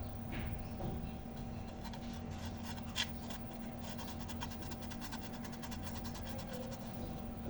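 Rapid small clicks and light scraping of hand work on the stereo unit, with one sharper click about three seconds in, over a steady low hum.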